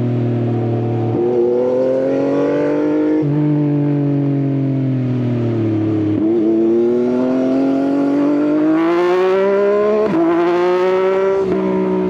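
Yamaha XSR900 three-cylinder engine through an Akrapovič exhaust, heard from the rider's seat. It eases down in pitch for the first half, then accelerates with the pitch climbing, broken by two quick gear changes near the end.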